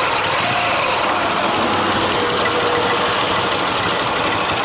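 Ural motorcycle's flat-twin engine idling steadily. It carries a foreign knocking noise from around the gears, which the rider fears is a generator drive gear that has worked loose.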